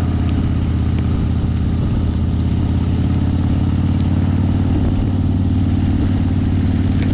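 Harley-Davidson V-twin motorcycle engine running at a steady cruising speed, with wind rush over it.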